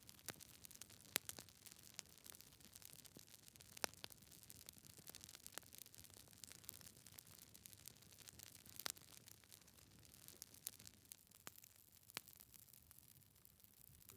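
Wood fire in a fireplace crackling faintly, with irregular sharp pops from the burning logs over a soft hiss.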